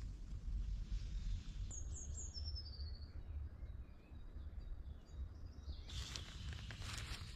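Outdoor forest ambience with a steady low rumble. About two seconds in, a bird gives a short call of high notes that step down in pitch, and near the end a patch of rustling and clicking begins.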